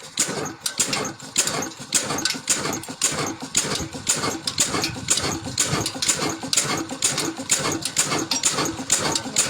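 Old stationary water-pump engine running slowly with an even, heavy beat of about two thuds a second.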